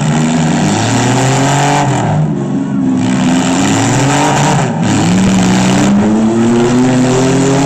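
Engines of the last two demolition-derby vehicles, a Jeep among them, revving up and down again and again, their pitch rising and falling.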